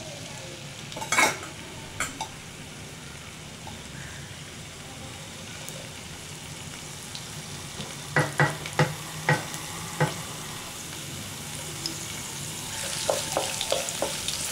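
Chopped ginger and garlic sizzling in hot oil in a frying pan, the sizzle growing louder near the end. A few sharp clicks come through, including a quick run of five or six about two-thirds of the way in.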